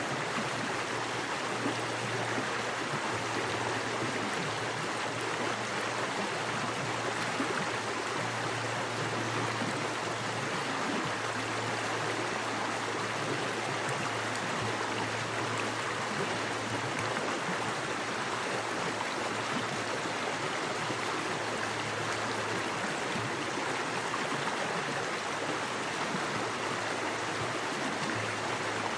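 Small woodland creek: fast water running over rocks in a steady, dense rushing.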